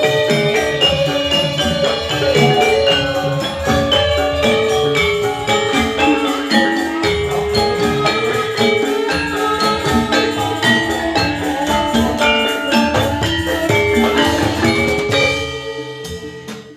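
Javanese gamelan music for a jathilan dance, with struck metallophones ringing out a quick, busy melody over drumming. It fades out near the end.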